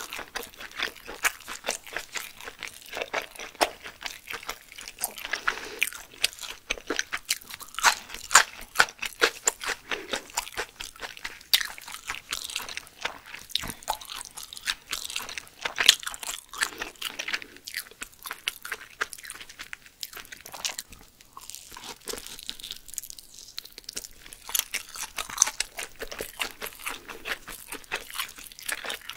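Close-miked eating of surströmming (fermented Baltic herring) sushi: chewing with a dense run of short mouth clicks and crunches. The sounds thin out for a few seconds past the middle, then pick up again.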